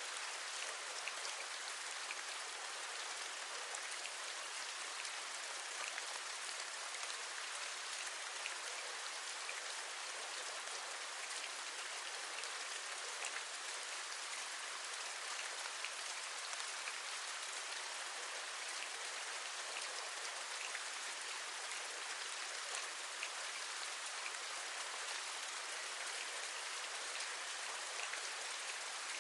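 Steady rain, an even hiss with many small drops ticking through it.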